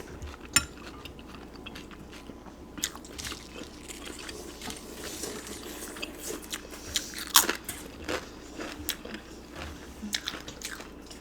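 Close-miked chewing and eating of pozole, with wet mouth sounds and scattered crunchy bites; the sharpest snaps come about half a second in and again about seven seconds in.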